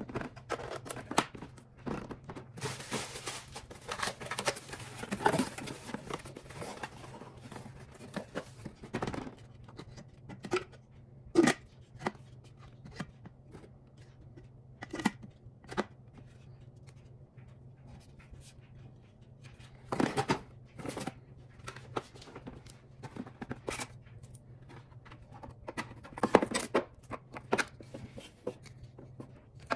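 Objects being handled: scattered clicks and knocks, with a stretch of rustling noise about three to seven seconds in, over a faint steady low hum.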